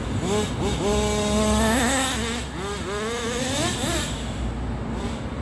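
Thunder Tiger .21 two-stroke nitro glow engine running after a repinch, its pitch holding and then rising and falling several times as it revs up and down.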